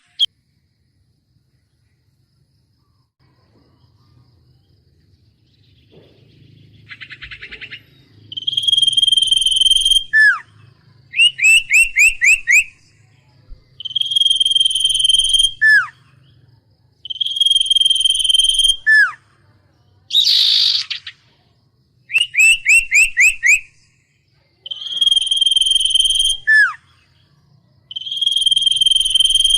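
Song of the bird known in Vietnam as huýt cô: loud phrases repeating every two to three seconds, mostly a long steady whistle ending in a quick downward slur, alternating with a rapid run of short falling notes and one harsh rasping call. The first several seconds are nearly quiet before the song begins.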